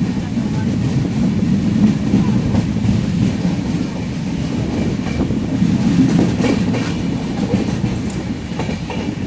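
Passenger train running along the track: a steady low rumble with occasional faint clicks from the wheels.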